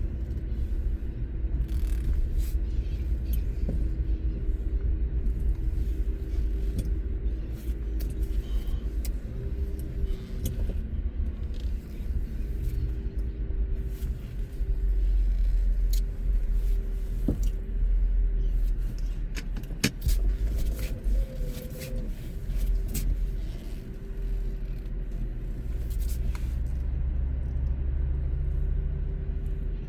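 Motor vehicle engines running with a steady, deep rumble, with a few sharp clicks and knocks.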